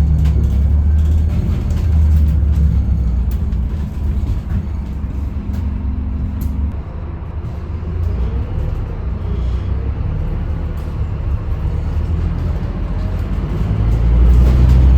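Scania K310UB bus's five-cylinder diesel engine running, a low drone that swells and eases as the bus moves. A faint rising whine comes in about eight seconds in.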